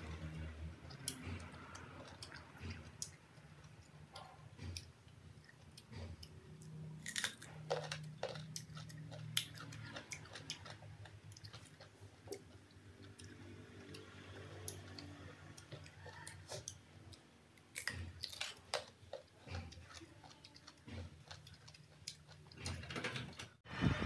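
Close-up crunching and chewing of crisp green sour mango slices, with irregular sharp crunches.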